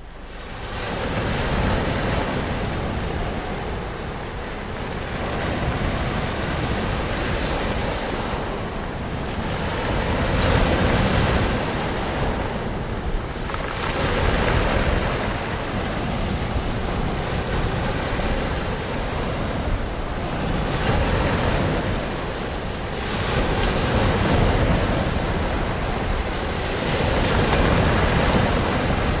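Ocean surf: waves breaking and washing in, swelling and falling back every few seconds. It fades up out of silence at the start.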